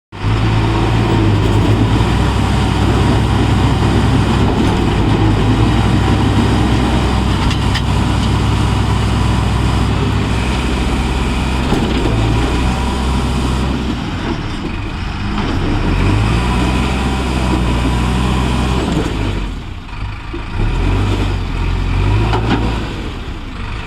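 Diesel engines of a stuck, fully loaded Eicher truck and the JCB pulling it, running hard under load. The engine note holds steady for a long stretch, then rises and falls, easing off briefly a few times in the second half.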